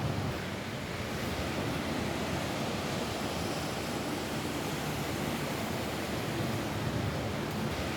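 Rain falling steadily on a roof: an even, unbroken hiss.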